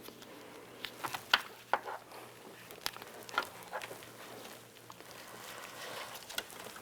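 Scattered light clicks and taps of needle-nose pliers working a rubber wiring grommet down into place, sharpest about a second and a half in.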